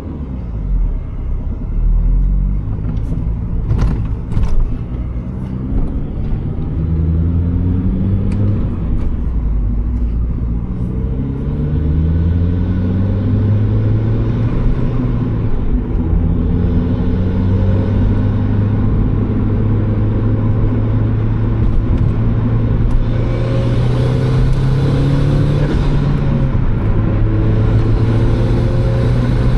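Turbocharged Mazda Miata's four-cylinder engine under way. It climbs in pitch several times through the first dozen seconds as the car accelerates through the gears, then settles into a steady drone at cruising speed.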